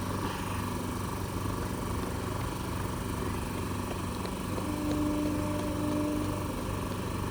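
Indian Railways train locomotive running with a steady low hum and an even throb, and a faint short steady tone about five seconds in.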